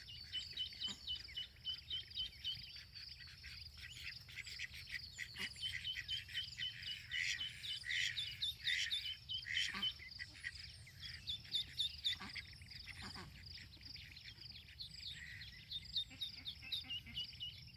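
Ducklings peeping continuously in rapid, high-pitched notes, with a few louder, lower calls about halfway through.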